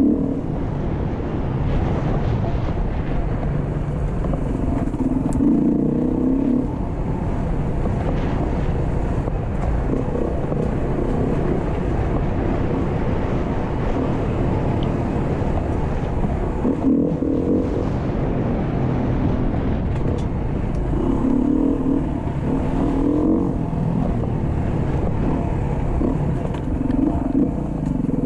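Beta RS 500 single-cylinder four-stroke dirt bike engine running under way on a trail, its revs rising and falling several times as the throttle is worked.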